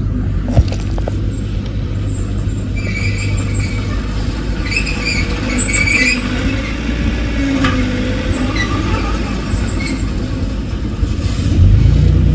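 Heavy earthmoving machine's diesel engine running steadily, with high squeaks and squeals coming and going in the middle. Near the end the engine gets louder and its pitch rises as it revs up.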